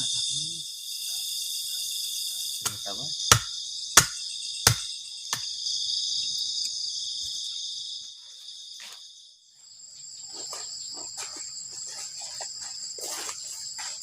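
Crickets and other insects trilling steadily in a high-pitched chorus, broken by five sharp knocks in a row about three to five seconds in. The chorus fades out near the middle and a higher, thinner insect trill takes over.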